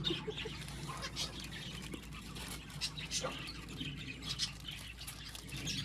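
Birds chirping and calling, many short high chirps scattered throughout, over a low steady background hum.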